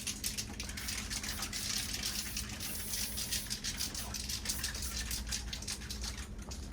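Aerosol spray paint can hissing in a rapid series of short sprays.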